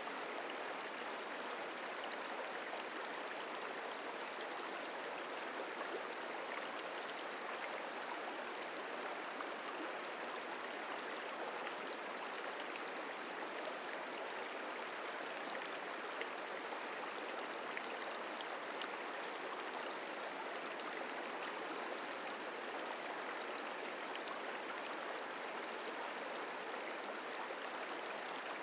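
Merced River flowing, a steady rushing of water that holds an even level throughout.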